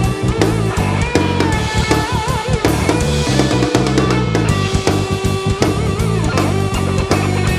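Heavy rock music played by a drum kit and electric guitars, with a steady beat and a lead line that bends and wavers in pitch.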